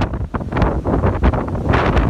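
Strong wind buffeting the microphone in uneven gusts, with heavy low rumble.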